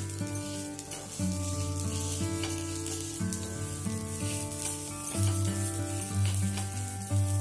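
Semolina uttapam sizzling in oil on a hot tawa, with a few light scrapes as a wooden spatula presses and turns it, over background music of sustained low notes.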